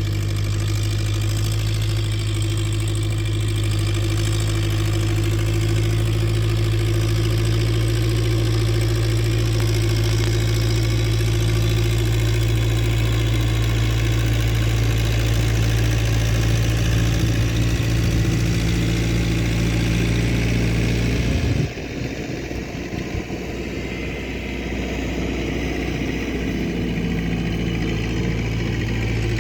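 Renault 681.4S tractor's MWM diesel engine running steadily with a constant low hum. About 22 seconds in the sound changes suddenly and drops in level, then the steady engine note builds back near the end.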